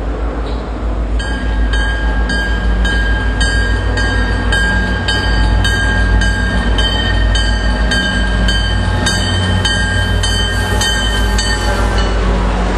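MBTA diesel commuter locomotive and its train drawing in, with a steady low engine and wheel rumble. Through most of the approach a bell rings about twice a second, stopping just as the locomotive reaches the platform.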